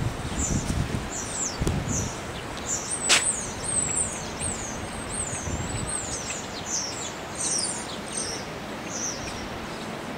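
Small birds chirping: a quick run of short, high, falling chirps. Wind buffets the microphone in the first couple of seconds, and there is a sharp click about three seconds in.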